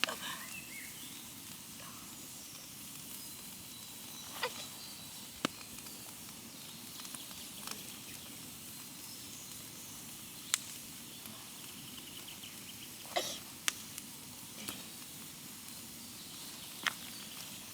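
Wood campfire burning, with a faint steady hiss and scattered sharp pops and crackles every one to three seconds.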